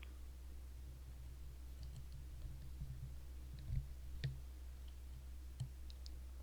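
Quiet room tone with a steady low hum and a few faint, scattered clicks, the clearest a little under halfway through and again near the end.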